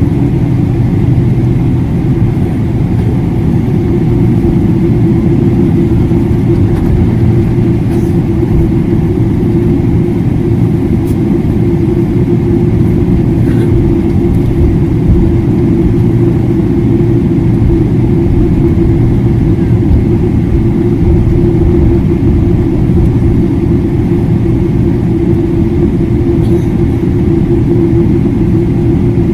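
Steady rumble of engine and airflow inside the cabin of a Boeing 777-300ER jet airliner, with a constant low drone and no change in pitch.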